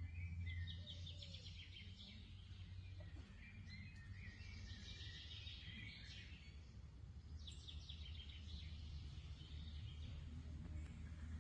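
Small birds singing faintly outdoors in four bursts of rapid chirps and trills, over a low steady hum that is strongest in the first couple of seconds.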